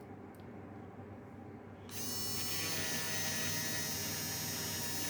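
Electric pencil sharpener running as a coloured pencil is sharpened; its steady motor starts suddenly about two seconds in.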